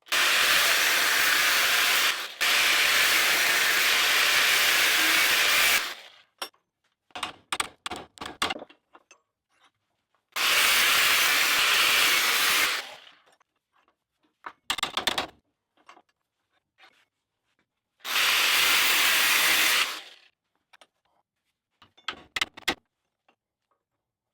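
Angle grinder with a cutting disc cutting slots about three-quarters of the way through a steel railroad spike, so the spike can be bent without heat. It runs in three cuts: a long one of about six seconds with a brief break, then two shorter ones, with small knocks between them.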